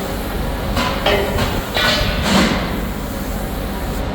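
Steady, loud factory machinery noise, with a few short harsh bursts between about one and two and a half seconds in.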